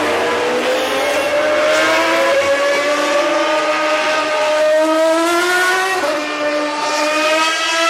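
Formula One car engine at high revs, its pitch climbing steadily through a gear, dropping sharply about six seconds in as it shifts up, then climbing again.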